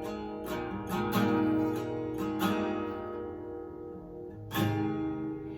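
Acoustic guitar strumming chords in an instrumental passage of a worship song, several strums close together early on, then a chord left to ring and fade before one more strum near the end.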